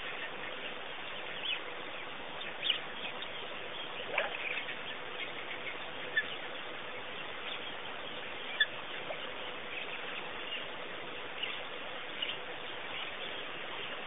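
Steady outdoor hiss with a faint hum, broken by a handful of short, sharp bird calls scattered through it.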